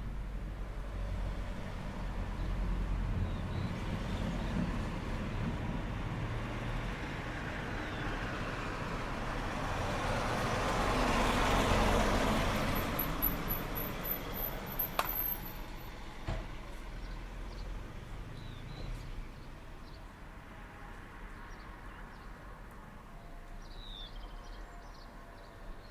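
A road vehicle passing by: a low engine rumble and tyre noise that grow to their loudest about halfway through, then fade away.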